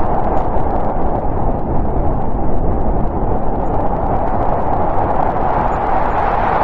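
Snowstorm wind blowing steadily as a deep, dense rush with no let-up.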